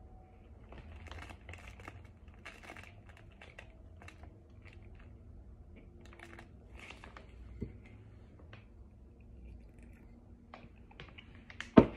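Faint, irregular crunching and crackling of Kingsford cornstarch chunks being chewed. One sharp, loud snap near the end.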